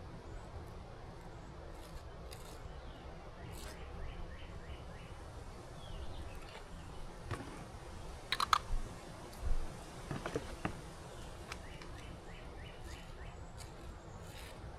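Outdoor ambience with a steady low background noise, a small bird giving quick runs of chirps twice, and a few short sharp clicks and clinks near the middle, the loudest sounds in the stretch.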